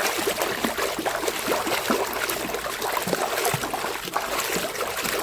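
Water splashing and trickling with many small bubbling blips as a toy tempo is dunked and swished in water to wash it.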